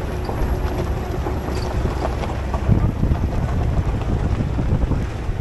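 Tour shuttle driving along, its engine and road rumble steady and low, with wind buffeting the microphone.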